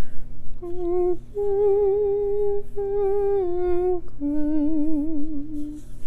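A woman humming a slow melody without words: four long held notes with vibrato, each a little lower than the last.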